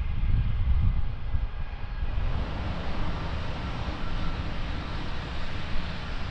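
Jet airliner engines: a low rumble with faint steady whining tones, changing abruptly about two seconds in to a steady rushing noise.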